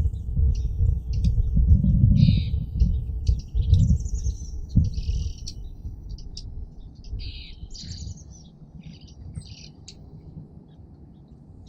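Small songbirds at a feeder chirping in quick, overlapping calls that thin out near the end. A low rumble underlies the first few seconds.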